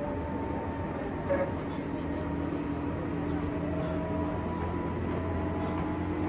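JR West 201 series electric train heard from inside the motor car while running: steady rumble of wheels on track with a traction-motor hum that rises slowly in pitch.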